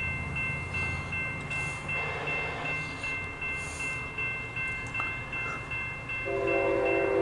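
Diesel locomotive of an approaching freight train, a low rumble with steady high-pitched tones over it, then the locomotive's air horn sounding a chord of several notes about six seconds in and held.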